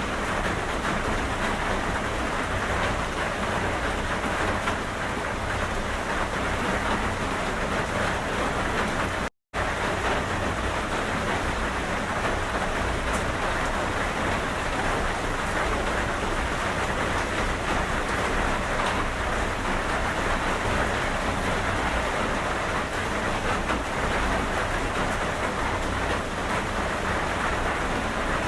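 Steady rain falling, an even dense hiss. It drops out to silence for a moment about nine seconds in, then resumes unchanged.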